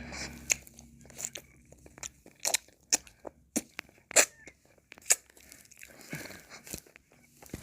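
Close-miked mouth sounds of eating and licking ice cream: irregular sharp clicks and smacks, the loudest a little past four seconds in and again about five seconds in.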